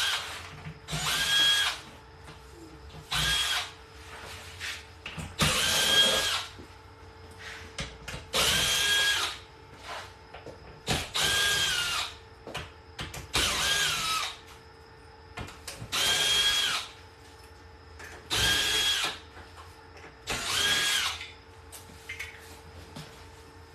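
Cordless drill-driver running in about nine short bursts of roughly a second each, its motor whine rising briefly as it spins up each time.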